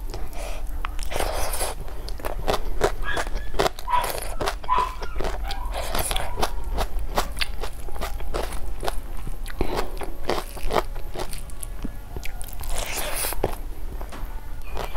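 Close-miked mouth sounds of eating snail curry with rice and raw salad: steady chewing and crunching, with many sharp clicks.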